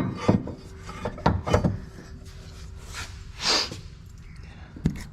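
A few sharp knocks and scrapes of hand tools and metal suspension parts being worked by hand, with a short hiss midway and one more knock near the end.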